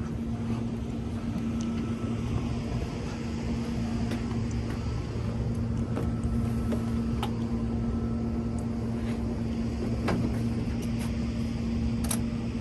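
Steady low mechanical hum with a constant pitch, like a running engine, with a few faint clicks over it; it cuts off at the very end.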